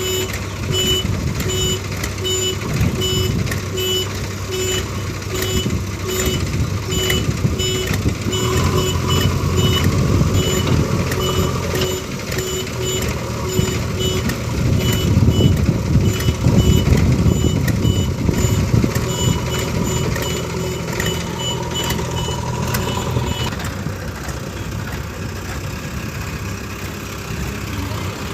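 Reversing alarm beeping about twice a second over heavy diesel engines running; the beeping stops near the end. The engine noise swells for a couple of seconds in the middle.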